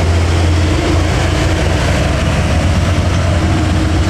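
Heavy diesel truck engine running, a loud, steady low drone.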